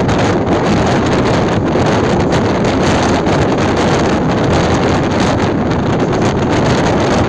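Wind buffeting the microphone at the open doorway of a moving suburban electric local train, over the train's steady running rumble.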